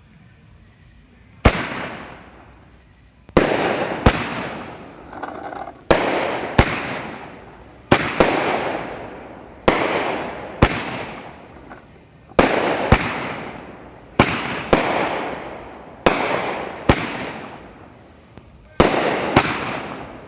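A 12-shot 500-gram consumer firework cake firing, starting about one and a half seconds in. Its sharp bangs come one after another, often in close pairs, each trailing off in a fading rush of noise.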